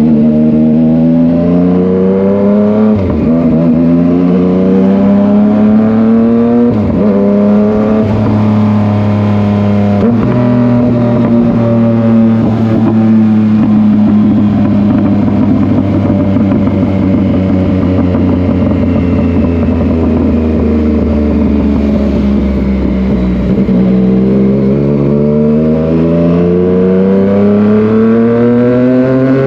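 Yamaha MT-09's three-cylinder engine pulling hard through the gears. The engine note climbs, drops sharply at two quick upshifts about three and seven seconds in, and holds at a slowly sagging pitch. It then climbs steadily again near the end.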